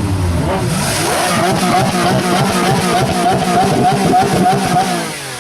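Supercar engine running loud, its pitch wavering quickly up and down as it is revved, with the sound easing off briefly near the end.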